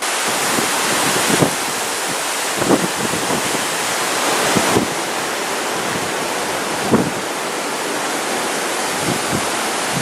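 Strong hurricane wind gusting in a steady loud rush that buffets the microphone and changes strength a few times, with a few short knocks in among it.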